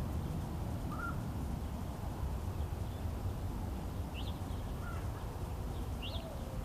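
Outdoor ambience: a steady low rumble with a few short bird calls, about one every second or two, some high and some lower.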